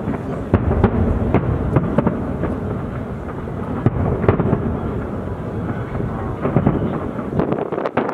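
Fireworks display going off: a continuous low rumble of overlapping booms with frequent sharp bangs, and a quick run of crackling near the end.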